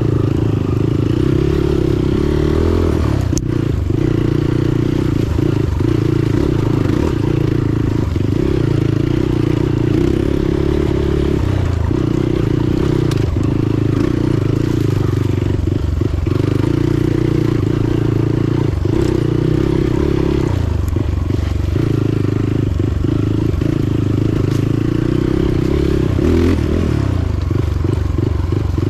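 Motorcycle engine running steadily under way, with a few brief clatters and knocks over the top, one sharper knock about three and a half seconds in.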